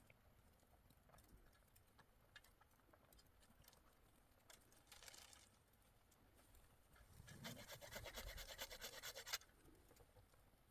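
Quiet handling with scattered small clicks, then about two seconds of rapid, even scraping or scratching strokes that stop suddenly.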